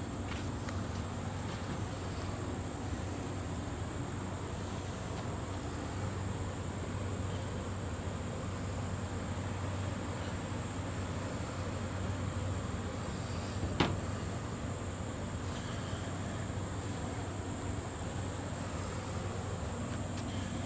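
Steady outdoor insect drone, a constant high thin buzz over a low hum, with one sharp tap about fourteen seconds in.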